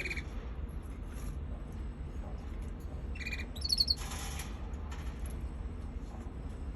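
Young canary calling: a few short high chirps, then a quick trill of high notes about three and a half seconds in, the loudest moment, followed by a brief raspy note.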